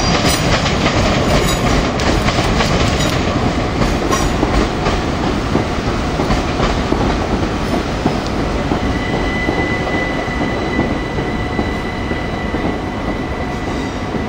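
Electric multiple-unit passenger trains running through the station: the wheels clatter over rail joints and pointwork, with rapid clicks in the first few seconds. A steady high-pitched whine comes in from about nine seconds in.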